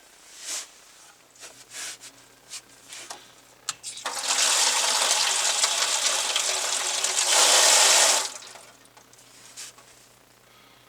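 Water rushing through household plumbing under pressure for about four seconds, then cut off suddenly, as the well water system is switched back on. A few light knocks come before it.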